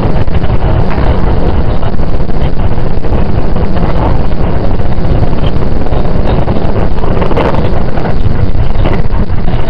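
Running noise heard inside a JR 681 series electric train car: a loud, steady rumble and rush from the moving train.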